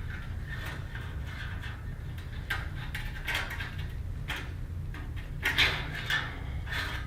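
Short scrapes and clinks of a welded steel wire basket being handled and set in place, over a steady low hum.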